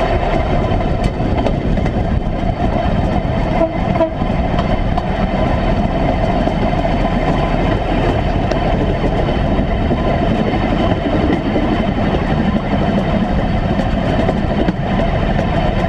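1957 Series I Land Rover running along railway track on flanged wheels: steady engine sound mixed with the rumble of steel wheels on the rails.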